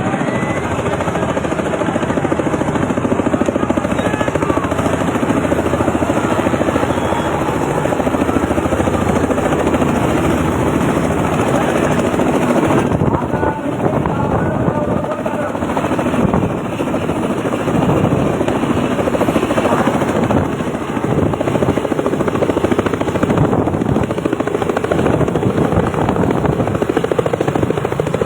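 Helicopter coming in to land, its rotor and engine noise loud and steady.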